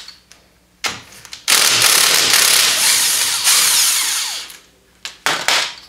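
Power tool with a 13 mm socket running in two bursts, about two seconds and then one second, to loosen the upper spindle bolt on a side-by-side's front suspension. A few sharp clicks of tool and metal follow near the end.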